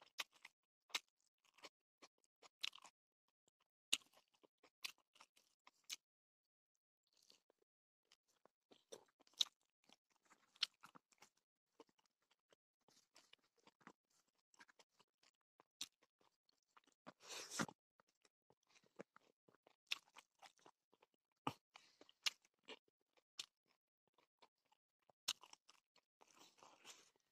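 A person chewing and crunching a mouthful of food close to the microphone: quiet, scattered wet clicks and crunches, with one longer, louder crunching stretch about two-thirds of the way in.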